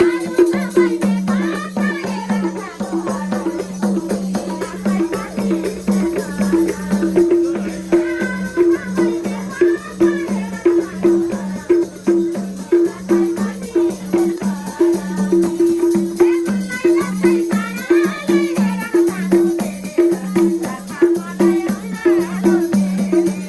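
Live Nepali dohori folk music: a hand drum keeps a fast, even beat on two low pitches, with a shaker-like rattle and a wavering melody line above it.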